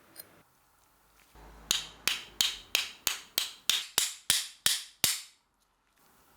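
A quick series of about eleven sharp taps, evenly spaced at roughly three a second, each ringing briefly, then cut off suddenly.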